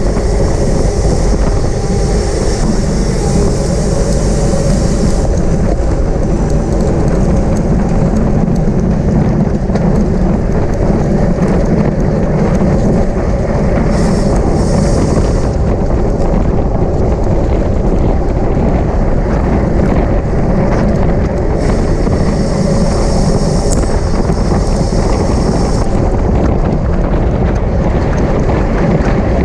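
Wind rushing over the microphone of a camera on a bicycle ridden at race speed, a loud, steady roar with no break, growing hissier for a few seconds at a time.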